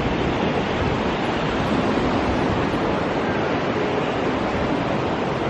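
A steady, even rushing noise with no distinct events, such as wind on the microphone, moving water or road noise from a vehicle.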